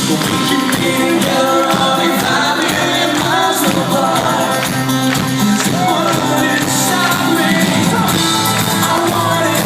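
Alternative rock band playing live and loud: a lead vocal sung over electric guitars, bass and drums, with a steady drum beat.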